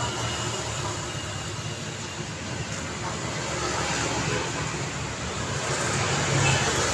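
Daytime road traffic: a steady wash of engine and tyre noise from passing vehicles. It swells about six seconds in as a vehicle passes close.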